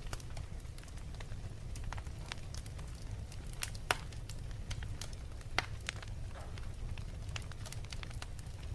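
Wood fire crackling in a fireplace: a steady low rumble of burning under frequent sharp pops and snaps, with two louder pops near the middle.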